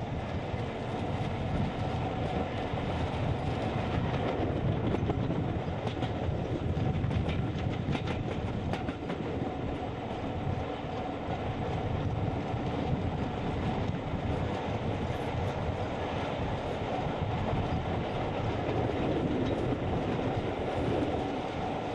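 Steam-hauled passenger train running, heard from a carriage window: a steady rumble with the wheels clattering over rail joints and pointwork.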